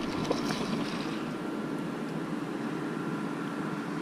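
Steady low rumble and hiss with a faint, thin, unchanging hum above it: the background noise of a fishing boat on open water, with no distinct events.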